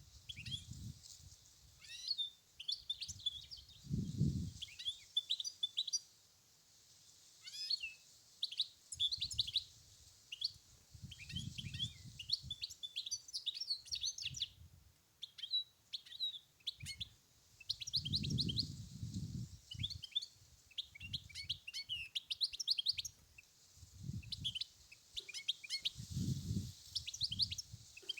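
European goldfinch singing: rapid twittering phrases of short, quick chirps and trills, repeated with brief gaps. Low rumbles come and go underneath every few seconds.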